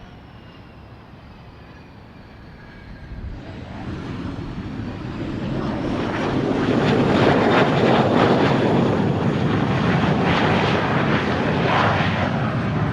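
An airplane passing close. Its engine noise swells from about three seconds in, stays loud through the middle and latter part, and starts to fade near the end, with a faint high falling whine at the start.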